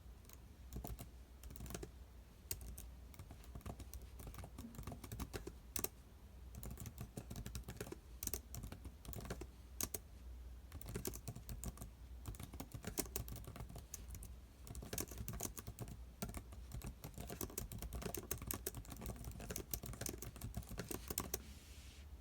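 Typing on a computer keyboard: a stream of uneven keystrokes with short pauses, stopping shortly before the end.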